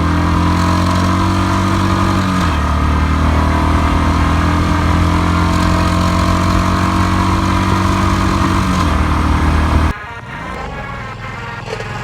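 Royal Enfield Bullet 350's single-cylinder engine accelerating through the gears. The note changes about two seconds in, then climbs slowly in pitch for several seconds. About ten seconds in, the engine note drops away suddenly to a quieter, rougher rubbing noise.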